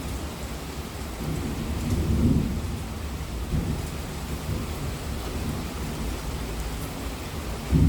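Steady heavy rainfall with thunder rumbling low beneath it, swelling about two seconds in; a louder clap of thunder breaks in right at the end.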